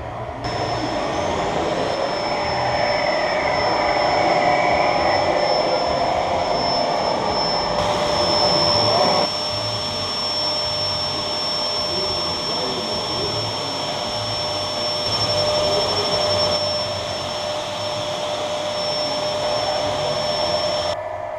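A steady electric whine with a high constant tone over a lower hum. It is louder for about the first nine seconds, then settles, and starts and stops abruptly.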